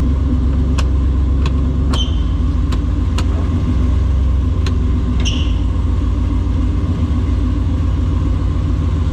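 Turbocharged V8 engine running steadily at an even pitch with a deep rumble, not revving. Several short sharp clicks sound over it in the first five seconds.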